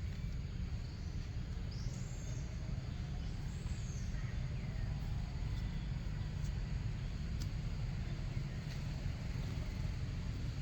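Outdoor background: a steady low rumble with a few faint, short high chirps about two seconds and three and a half seconds in, and a few faint ticks.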